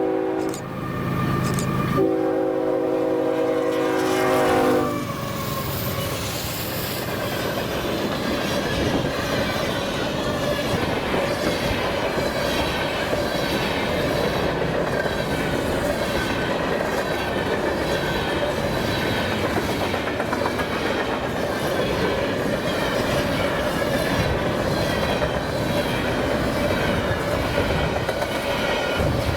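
Diesel freight locomotive horn sounds a chord in a short blast and then a long blast of about three seconds, followed by the freight train passing close by: a steady rumble of steel wheels on rail with rhythmic clickety-clack over the joints.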